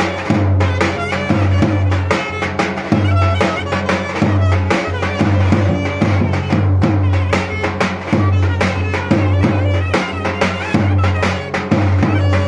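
Clarinet playing a Turkish folk dance melody over a davul bass drum beating a steady rhythm.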